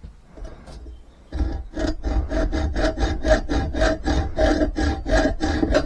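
Hand saw cutting through a block of seasoned ash in quick back-and-forth strokes, about five a second. After a few light starting strokes it settles into a steady, loud rhythm about a second and a half in.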